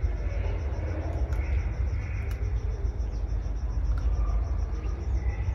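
Outdoor ambience: a steady low rumble with a faint, high-pitched insect chirp repeating about five times a second.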